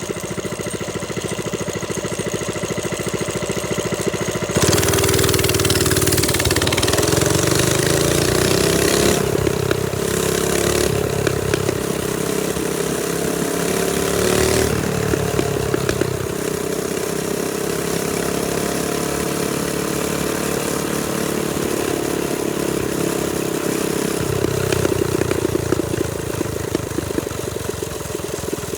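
Trailmaster Storm 200 minibike's single-cylinder four-stroke engine running under way, its pitch rising and falling with the throttle. From about five seconds in, loud wind rush over the microphone covers it for about ten seconds.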